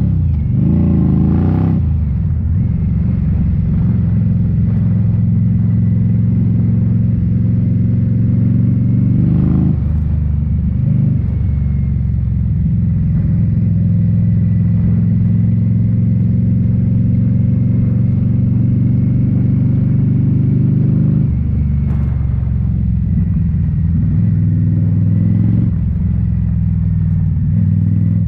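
2018 Indian Scout Bobber's V-twin engine running through Rinehart slip-on mufflers while riding, revs rising in the first couple of seconds, then a steady cruising note that changes about ten, twenty-one and twenty-six seconds in.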